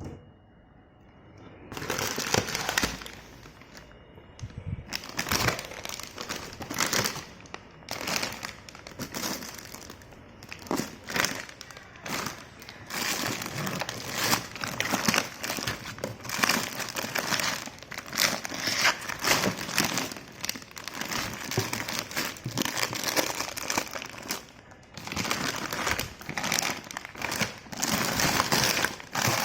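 Plastic packaging crinkling and rustling as it is handled, in uneven bursts that start about two seconds in and keep going.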